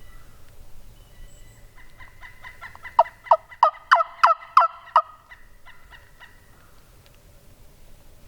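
Turkey yelping: a softer, faster rattling run, then about seven loud yelps about three a second, each note falling in pitch.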